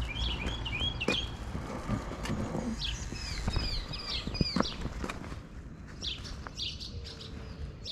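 Birds chirping: many short, quick calls, busiest in the middle, over a low steady hum with a few scattered clicks.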